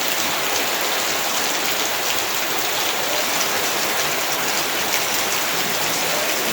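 Heavy rain falling steadily on surfaces in a yard, a dense even hiss with scattered ticks of individual drops.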